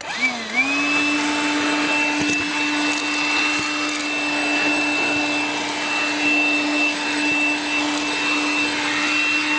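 Makita cordless vacuum cleaner switched on, its motor spinning up within about half a second to a steady whine with rushing air, then running steadily as it sucks at a car's dirty carpet.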